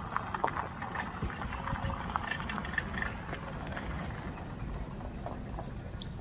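Safari vehicle's engine running with a low, steady rumble, with scattered faint clicks and knocks.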